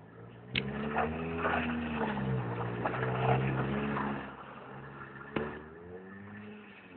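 Nissan Sentra SE-R Spec V's four-cylinder engine revving up, holding higher revs for about three seconds, then easing back off. A sharp click comes as the revs rise and another after they fall.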